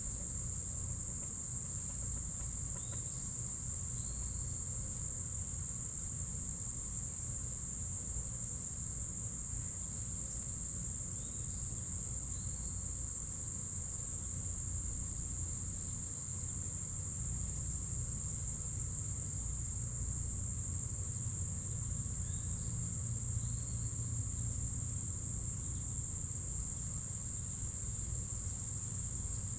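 A steady, high-pitched insect chorus of crickets or similar insects, with a few faint short bird calls about three seconds in, near the middle and toward the end, over a low rumble.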